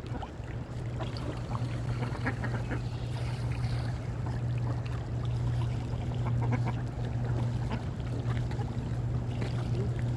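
Ducks calling in short, scattered quacks over a steady low rumble.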